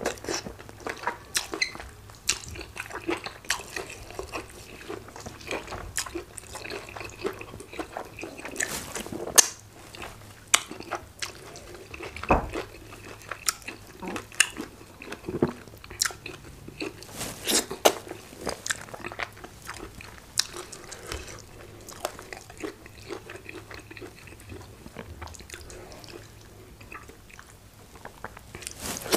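A person biting and chewing hard chicken with efo riro vegetable soup, close to the microphone: irregular wet mouth clicks and chewing, with a few sharper crunches.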